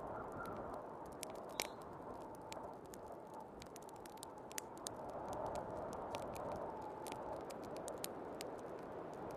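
Wood fire crackling with many small sharp pops, over the steady rushing wind of a snowstorm that swells and eases.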